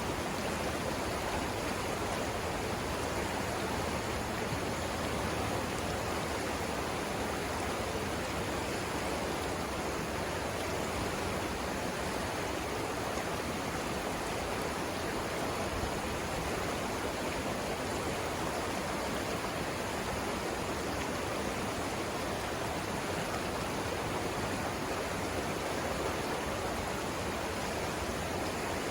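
The Savannah River flowing, a steady even rush of water with no breaks or changes.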